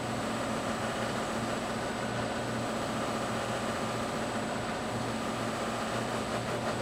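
Electric buffing machine running steadily while its cloth buffing wheels polish a wooden stave drum shell with buffing compound: an even motor hum under a constant hiss.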